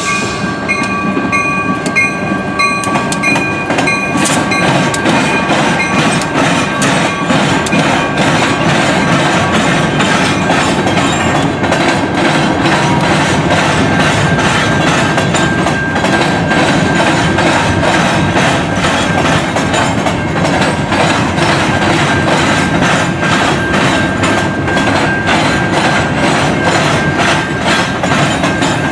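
A train rolling past at close range: a steady rumble of wheels with rapid clicking over rail joints and a thin, steady high tone.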